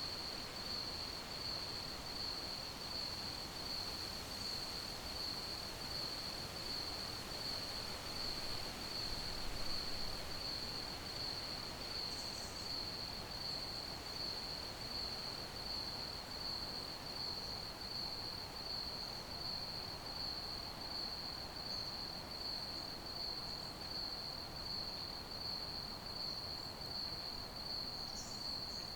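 Crickets chirping in a steady, evenly pulsing high trill that holds one pitch throughout, over a soft background hiss.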